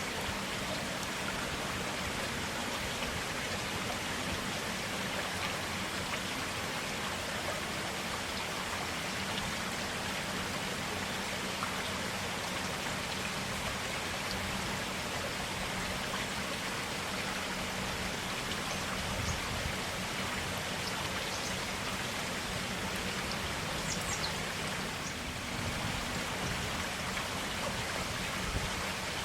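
Stream water running steadily over rocks, an even, continuous rushing.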